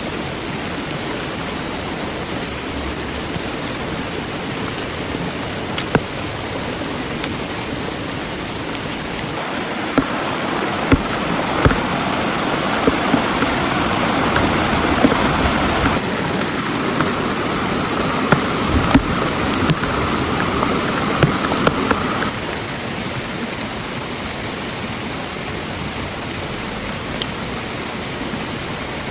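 Heavy rain falling on a tent and its plastic tarp: a steady hiss with scattered sharp drop impacts. It grows heavier about ten seconds in and eases back a few seconds before the end.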